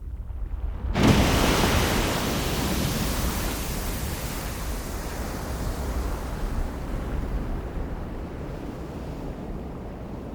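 Geyser erupting: a sudden rush of spouting water and steam about a second in, loudest at first and slowly dying away.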